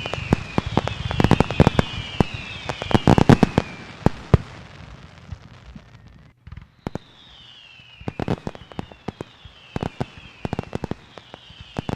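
Fireworks going off: a rapid run of bangs and crackles, thinning out after about four seconds, with a short lull near the middle. A high falling whistle repeats about once a second over them.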